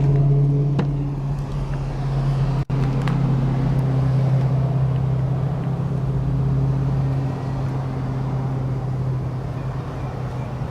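A vehicle engine running steadily at idle, a constant low hum with a very brief dropout about two and a half seconds in.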